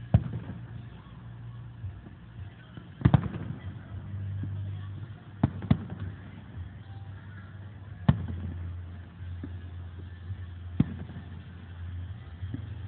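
Aerial firework shells bursting: sharp bangs every few seconds, two of them in quick pairs, over a low steady hum.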